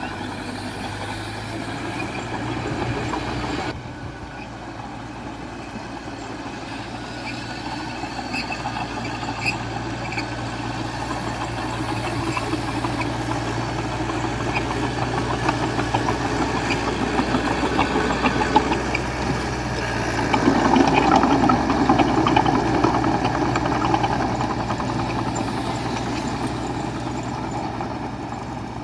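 Diesel engine of heavy earthmoving machinery running steadily, with scattered light metallic clinks, changing abruptly a few seconds in and growing louder and rougher about two-thirds of the way through.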